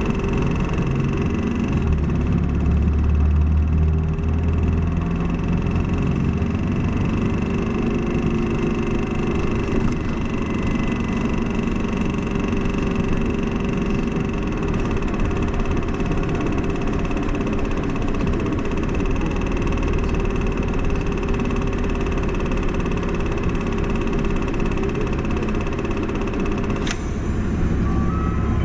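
Isuzu Erga city bus's diesel engine and drivetrain running while under way, heard from inside the passenger cabin, with a steady high whine over the engine drone. The low engine drone swells for a few seconds about two seconds in, and a sharp click comes near the end.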